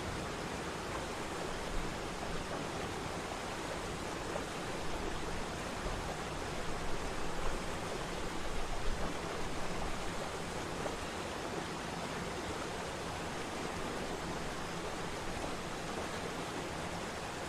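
A waterfall's steady rush of falling water, with a few small swells in level around the middle.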